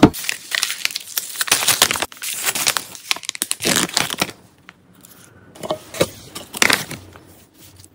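Plastic packaging crinkling and rustling as packs are handled and unpacked, in dense bursts for the first four seconds or so. After that it goes quieter, with a couple of short sharper handling sounds near the end.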